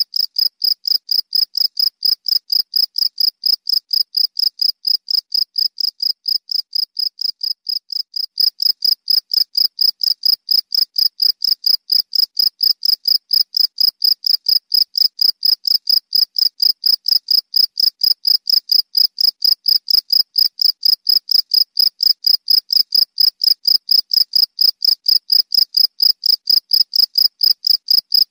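Cricket chirping steadily, a shrill tone repeated at about four chirps a second, slightly softer for a few seconds before picking up again about 8 seconds in.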